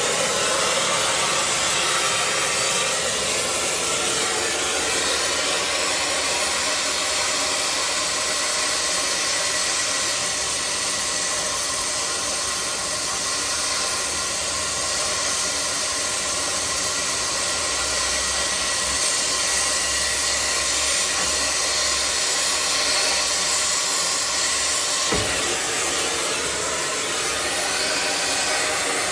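Oxy-fuel torch flame hissing steadily while heating a stuck part, with a single short knock late on.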